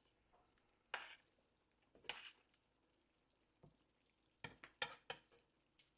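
Near silence with faint sounds from a pot of steaming fish: two brief soft hisses about one and two seconds in, then three light clicks a little before the end.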